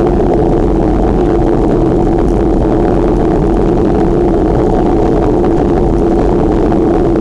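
Steady rush of wind buffeting the microphone, with rolling noise, while riding a bicycle; an unbroken low rumble with no let-up.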